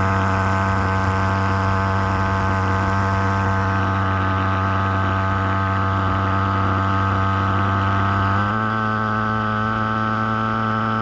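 Agrofog AF-35 pulsejet fogging machine running with a loud, steady, pitched drone. About eight and a half seconds in, its pitch steps slightly higher and it gets a little quieter.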